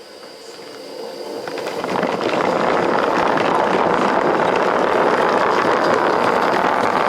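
Live-steam model locomotive rolling over sanded rail, its wheels grinding and grumbling on the sand. The sound builds from about a second in and holds steady and loud from about two seconds.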